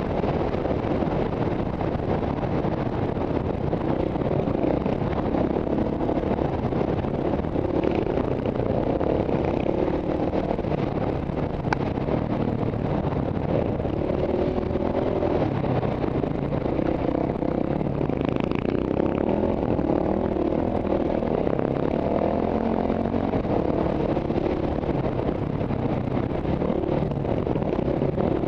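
KTM trail bike's single-cylinder engine heard from the rider's helmet, revving up and down continuously as it is ridden hard, with a sharp click about twelve seconds in.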